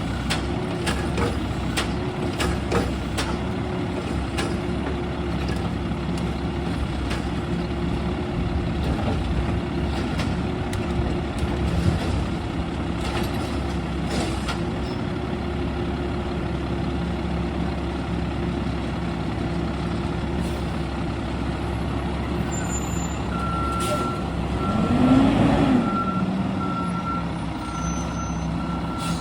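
Garbage truck's diesel engine running steadily, with scattered knocks and clanks in the first half. Its reversing alarm starts beeping evenly about three-quarters of the way in. The engine revs up once just after the beeping begins.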